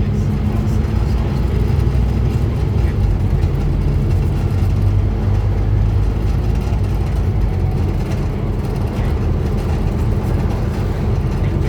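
Scania N230UD Omnicity double-decker bus's diesel engine running steadily with a low, even drone.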